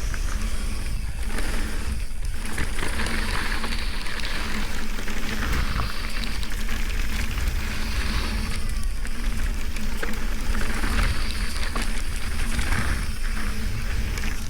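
Wind buffeting a ride-along camera's microphone with the rolling and rattling noise of a mountain bike descending a dirt trail, rising and easing every few seconds with speed.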